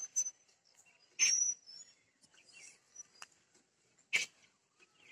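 Quiet outdoor morning ambience with a few short, high bird chirps and a couple of sharp clicks, the loudest about a second and about four seconds in.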